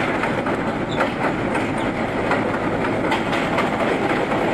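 R32 subway train running along the track, heard from inside the car: a steady rumble and rattle with irregular clicks of the wheels over rail joints.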